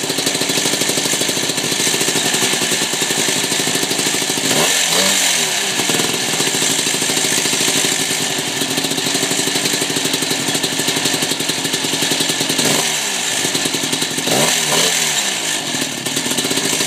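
1998 Yamaha YZ250's 250cc two-stroke single-cylinder engine running loudly on its first start after a complete rebuild with a freshly honed top end. The revs swing briefly about five seconds in and twice more near the end.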